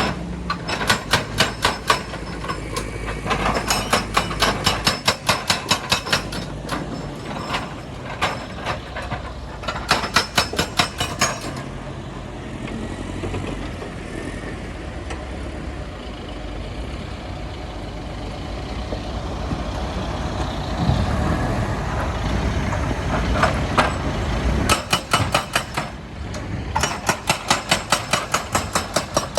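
Heavy diesel machinery running steadily, with several bursts of rapid, evenly spaced hard impacts, several a second, on and off.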